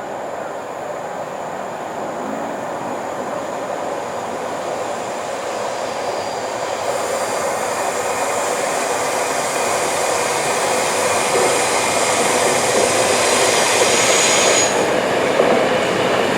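A train approaching along the line, its running noise growing steadily louder. About halfway in, a high-pitched hiss from the rails and wheels joins in, then cuts off suddenly shortly before the end.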